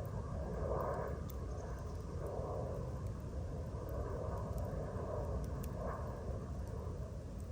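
Wood campfire burning, with scattered small crackles and pops over a steady low rumble.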